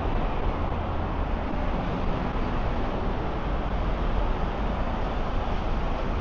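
Steady city street traffic noise: a constant rumble of passing motor vehicles, with no single sound standing out.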